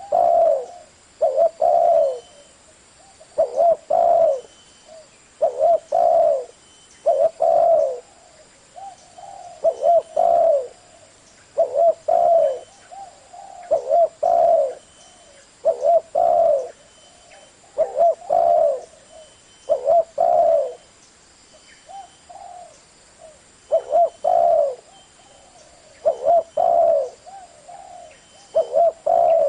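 Spotted dove cooing: short groups of low coo notes repeated about every two seconds, with brief pauses between them.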